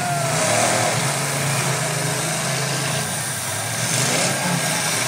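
Engines of demolition derby trucks running in the arena, a steady engine drone.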